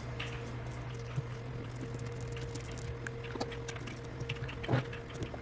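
Small scattered clicks and ticks of metal tweezers picking at the adhesive pull tabs under an iPhone 8 battery, over a steady electrical hum, with one slightly louder short scrape near the end.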